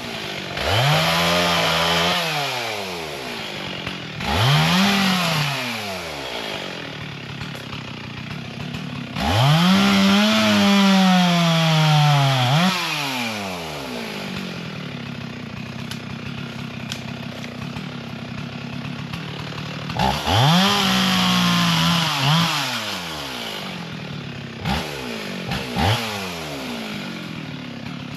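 Chainsaw cutting wood: it idles steadily and revs up about five times. The longest rev, from about 9 to 13 seconds in, sags slowly in pitch before dropping back to idle.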